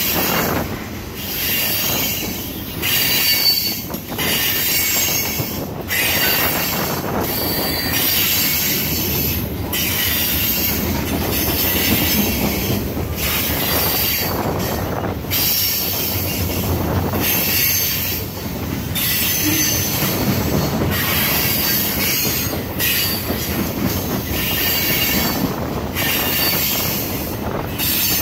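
Freight cars of a passing Norfolk Southern mixed freight train rolling by at close range: a steady rumble of steel wheels on rail with a high-pitched wheel squeal. The squeal drops out briefly about every two seconds.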